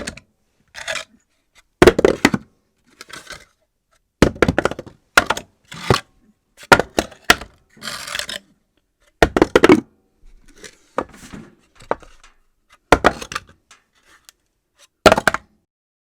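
Various objects dropped onto a hard floor at irregular intervals, about a dozen thuds and clatters, some followed by a short rattle as the object bounces or rolls.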